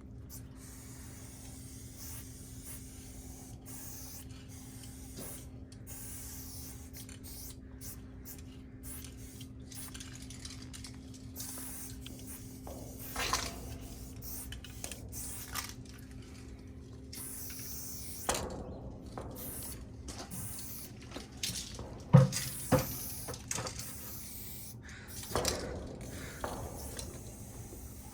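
Aerosol spray-paint can hissing in short, repeated bursts with brief gaps between them, with a few knocks in between.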